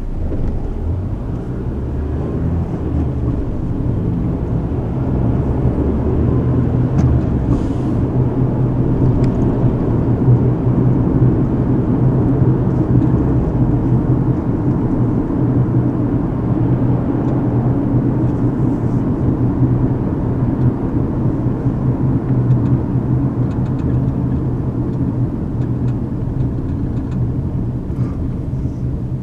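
Car interior noise while driving: a steady low rumble of engine and tyres on the road, heard from inside the cabin. It grows louder over the first ten seconds or so, then eases slightly toward the end.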